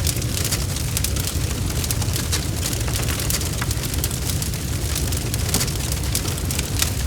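Wood fire burning in a fireplace: logs crackling and popping in many quick, irregular snaps over a steady low rumble of the flames.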